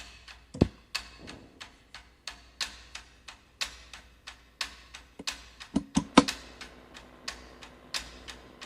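Dry ticking clicks at a steady pace of about three a second, with a low knock under a second in and a quick cluster of knocks about six seconds in; after that a faint steady low hum runs under the ticks.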